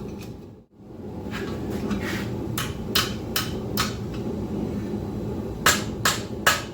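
Blacksmith's hand hammer striking hot steel on an anvil, shaping the work: a run of blows at about two to three a second, a pause of about two seconds, then a second run of blows near the end.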